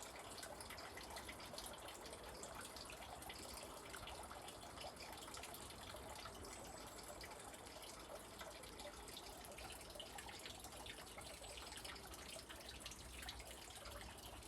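Faint, steady trickle and drip of spring water running.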